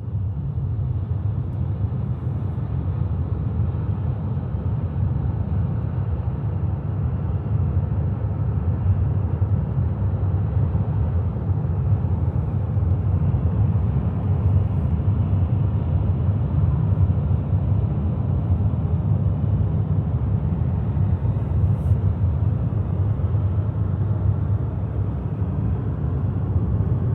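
Car driving along a snowy road: a steady low rumble of tyres and engine that holds evenly throughout.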